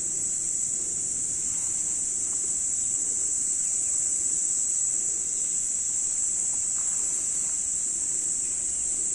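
Steady, high-pitched chorus of insects, one unbroken drone.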